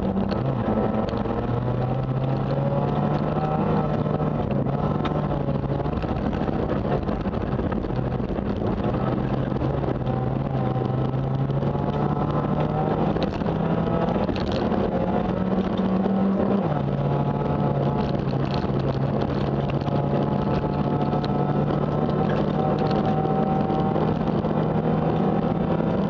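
Renault Mégane kit car rally engine running hard inside the cabin on a gravel special stage, its note climbing slowly through each gear and dropping sharply at the upshifts, once right at the start and again about 17 seconds in. Scattered ticks of gravel hitting the car and some wind noise underneath.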